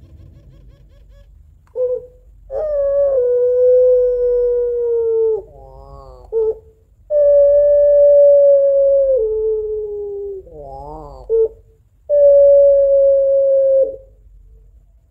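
Female puter pelung, a long-voiced breed of Barbary dove, gives three long drawn-out crying calls. Each call is held on one steady tone for two to three seconds, and short wavering warbles come between them. This is the female calling for a male.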